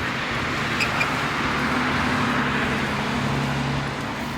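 Road traffic: a motor vehicle passing close by, its engine hum and tyre noise swelling in the middle and easing off near the end.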